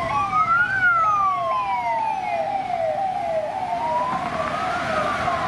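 Electronic ambulance siren from a toy ambulance: a slow wail rising and falling twice, with quicker falling sweeps repeating about twice a second over it.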